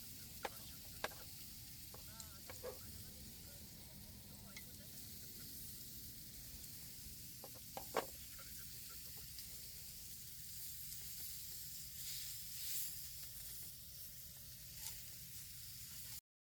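Steak sizzling steadily as it cooks, with a few sharp clicks, the loudest about halfway through; the sound cuts off suddenly near the end.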